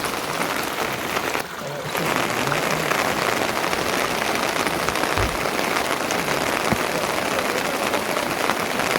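Steady rain falling, a dense hiss full of fine patters, with a brief dip in level about a second and a half in.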